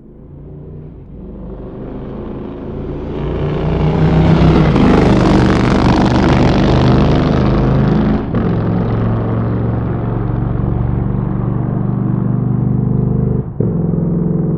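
Motorcycle engine running, building up from silence over the first few seconds to its loudest about four to eight seconds in, then running steadily. Its sound cuts out for a split second twice, about eight seconds in and near the end.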